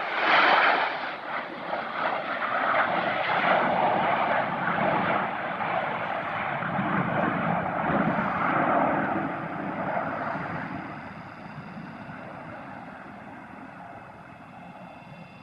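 Aircraft flying past at an airshow: a loud rush of engine noise at the start, holding for about ten seconds, then fading away.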